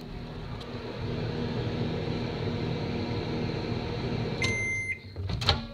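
Microwave oven running with a steady hum, then a single electronic beep about four and a half seconds in as the hum stops, followed by a sharp knock.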